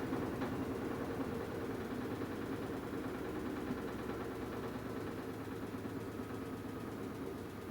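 AQUA washing machine's direct-drive inverter motor running with a steady hum that gradually grows quieter, with a faint thin whine entering in the second half.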